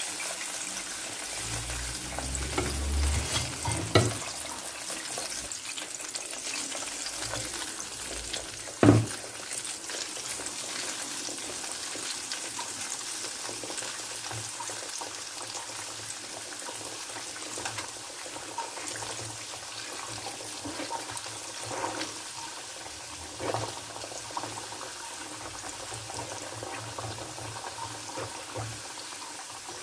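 Breaded chicken pieces frying in hot oil with a steady sizzle. A few short knocks of a utensil come through, the loudest about nine seconds in.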